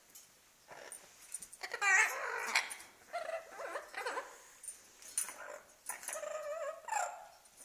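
Pet Amazon parrot vocalizing in several bouts of pitched, wavering chatter and whining calls, with a quick warble around two seconds in.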